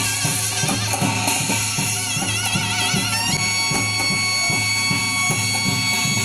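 Korean shamanic ritual music: a nasal double-reed wind instrument plays a wavering, held melody over a steady drum beat.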